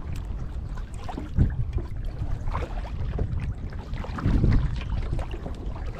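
Kayak paddling: paddle splashes and water dripping over a steady low rumble, with louder strokes about a second and a half in and again a little past four seconds.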